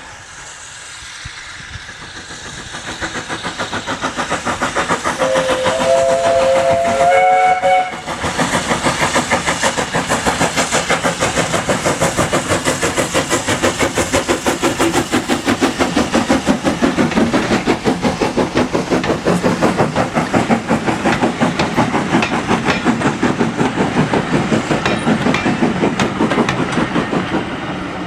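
Steam locomotive working uphill: it grows louder over the first few seconds, gives a two-note whistle about five seconds in, then carries on with steady rhythmic exhaust beats, a few a second.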